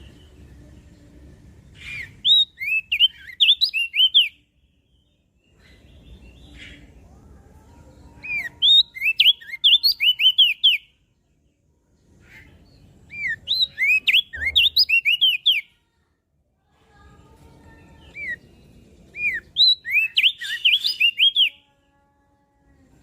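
A crested white-eye singing: four phrases of rapid, high, sliding chirps, each a couple of seconds long and separated by short pauses.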